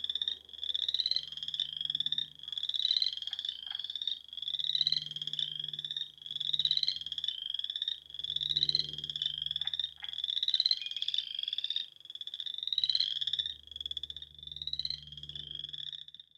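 A chorus of frogs calling: high, rising, pulsed trills repeat about once a second, several calls overlapping, over a faint low hum.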